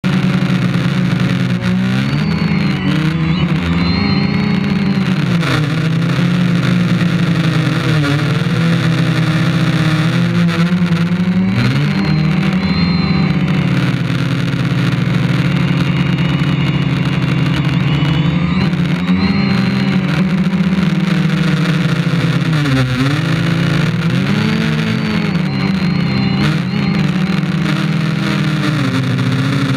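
IRIS quadcopter's electric motors and propellers running loud and steady, the pitch dipping and rising every few seconds as the motor speeds change while it manoeuvres.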